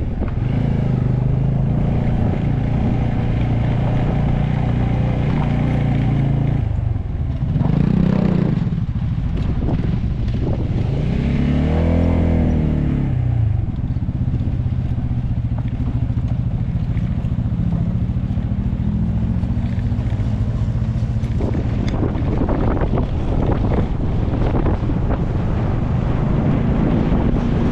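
Motorcycle engine running under load on a climb, its revs rising and falling a few times, most clearly about twelve seconds in.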